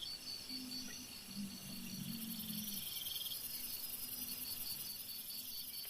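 Crickets chirping in a steady, rapid, evenly pulsed trill, with another insect buzzing higher up. A faint low hum comes in about half a second in and fades out after about three seconds.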